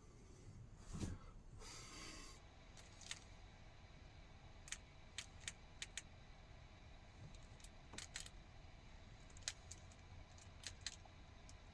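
Faint handling noises: a soft knock and a brief rustle about a second in, then about a dozen light, sharp clicks scattered irregularly, from small hard objects being moved or set down.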